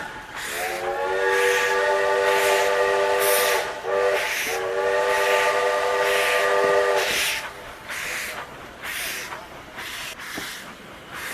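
Steam-train whistle sounding a chord of several tones in two long blasts of about three seconds each, with a brief toot between them. Under it runs steady steam chuffing, about one chuff a second, with hiss.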